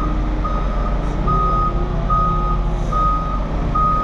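Vehicle backup alarm beeping steadily, about five even beeps of one pitch, over the low steady rumble of the vehicle's engine.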